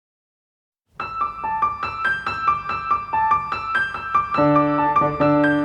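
Piano introduction of a song: a run of quickly repeated notes starts about a second in after silence. About four and a half seconds in, a bass joins with lower held notes.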